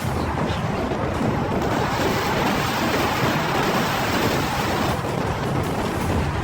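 A steady, even rushing noise that starts abruptly and holds at a constant level throughout, like heavy water or wind.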